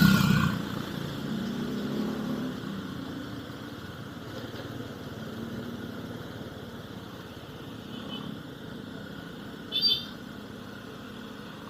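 Steady vehicle engine and road noise heard through an action camera's built-in microphone while driving, fading slightly, with a brief high-pitched chirp about ten seconds in.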